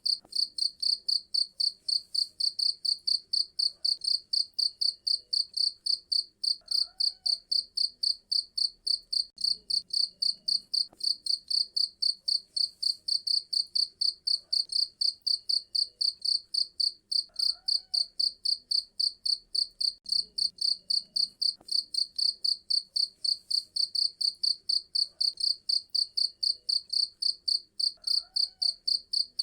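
Cricket chirping: a fast, even run of shrill high-pitched pulses that goes on without a break.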